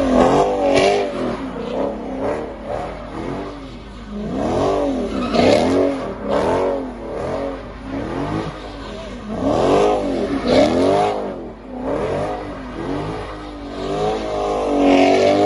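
Dodge Charger engine revving up and down again and again while the car drifts in donuts, its pitch rising and falling about once a second, with the rear tyres spinning on the pavement.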